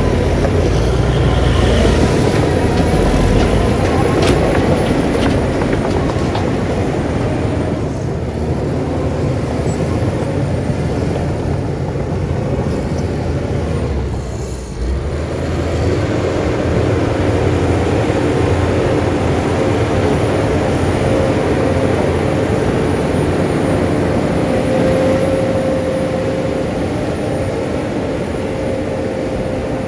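Heavy earthmoving machinery working, a bulldozer's diesel engine running steadily under a thin, steady whine. The sound dips briefly about halfway through, then picks up again.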